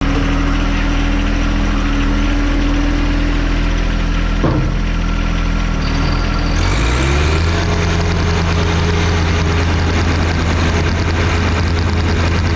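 John Deere 1025R tractor's three-cylinder diesel engine running steadily at a low speed, then throttled up about six seconds in, and running on at a higher, steady speed.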